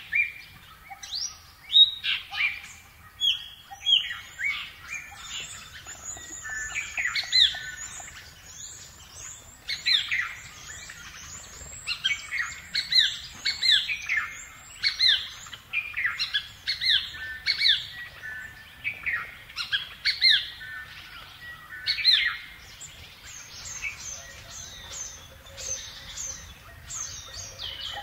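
Small birds chirping, several at once, in a dense run of short, quick falling chirps.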